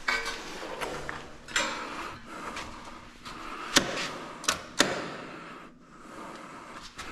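Irregular sharp knocks and clicks, like hard parts being handled or bumped, with three louder knocks past the middle.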